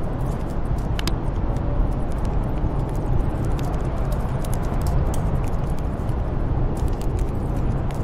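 Steady rush of storm wind, with a wood fire crackling in scattered sharp pops, a few of them bunched together near the end.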